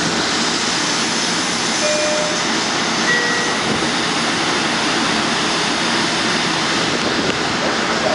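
LIRR M-7 electric multiple unit standing at the platform, its idling equipment giving a steady, even whooshing roar.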